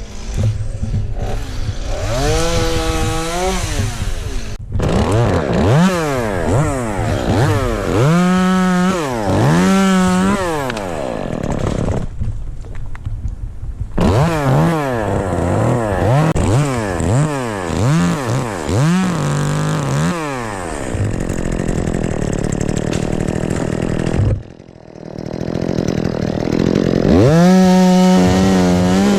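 Two-stroke chainsaw revved up and down again and again, its pitch rising and falling with each burst of throttle. The engine drops away briefly about three-quarters of the way through, then revs up again.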